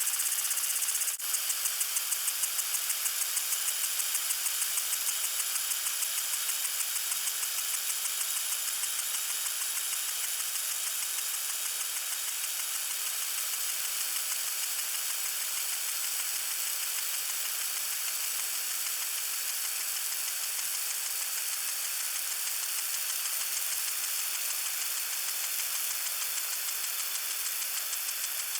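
Garden water sprinkler spraying: a steady hiss of water with a fast, even ticking running through it. A single sharp click about a second in.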